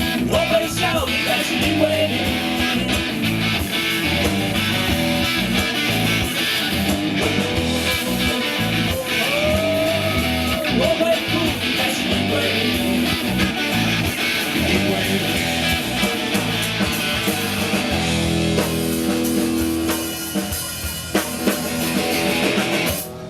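Band music with guitars over a drum kit, stopping suddenly near the end.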